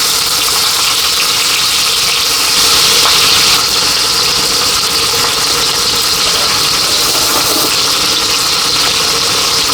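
Heavy rain falling steadily in a downpour, a dense hiss that swells a little about two and a half seconds in.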